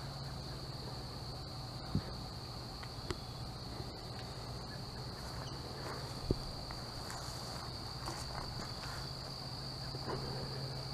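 Steady, high-pitched chirring of an insect chorus over a faint low hum, with a few faint knocks.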